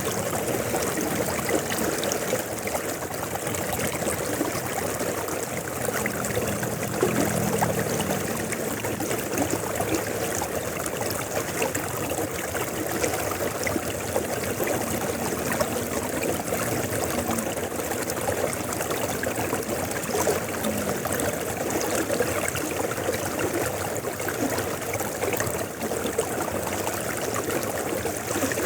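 A river flowing steadily: a continuous, even rush of running water.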